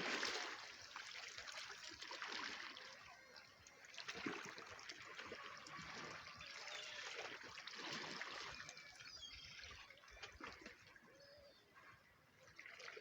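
Small sea waves lapping and splashing, swelling and fading every couple of seconds.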